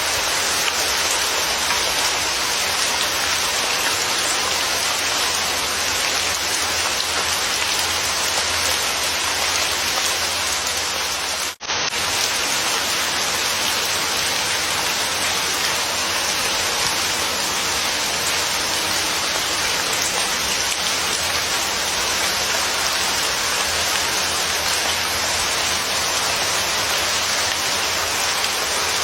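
Steady, even rain falling, a dense unbroken hiss of drops on surfaces. The sound cuts out for an instant about twelve seconds in, then resumes unchanged.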